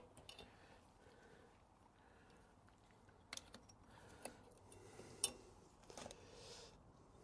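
Near silence, broken by a few faint, scattered clicks and taps of small parts being handled, the sharpest about five seconds in.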